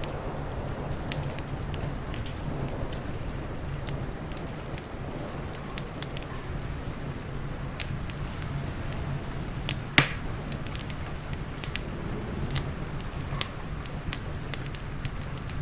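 Wood fire crackling, with irregular sharp pops, the loudest about ten seconds in, over a steady hiss of rain.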